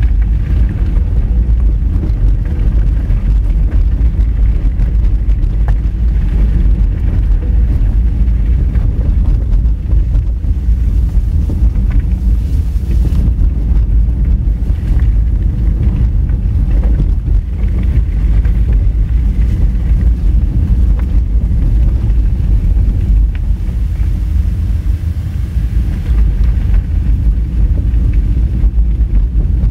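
Honda Fit car driving over a rough gravel road: a steady low rumble of engine and tyres on loose stones, with occasional faint clicks.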